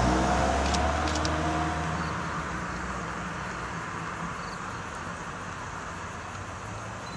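A car passing by and fading into the distance over the first few seconds. It leaves a steady outdoor hiss with a few faint high ticks.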